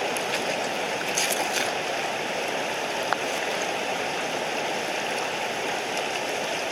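Mountain stream rushing steadily, with a few light clicks about a second in and another single click near three seconds.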